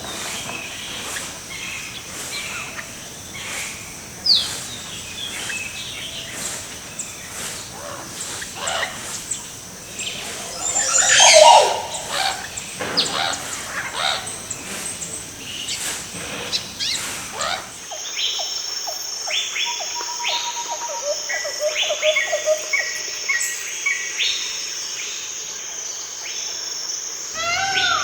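Forest birds calling and chirping, many short overlapping calls and quick falling whistles, with a louder burst of calls about eleven seconds in. About two-thirds through the background changes suddenly to a steady high buzz under rapid repeated chirps.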